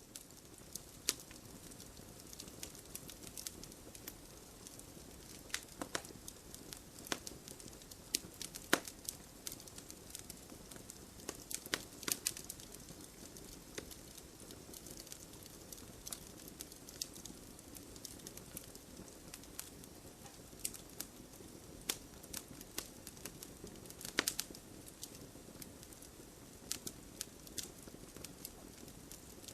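Wood campfire crackling: irregular sharp pops and snaps over a soft steady rush of burning.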